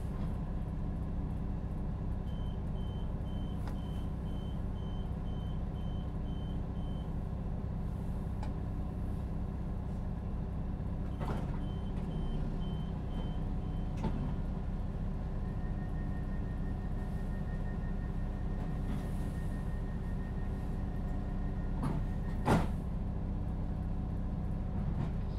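Class 172 Turbostar diesel multiple unit idling at a station, its underfloor diesel engine a steady low hum. Rapid door-warning beeps, about two a second, sound about two seconds in and again around eleven seconds, and a sharp thud near the end is the loudest sound, typical of the doors shutting before departure.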